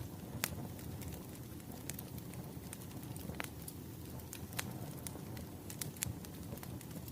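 Wood fire burning with a low steady rumble and irregular sharp crackles and pops, one loud pop about half a second in.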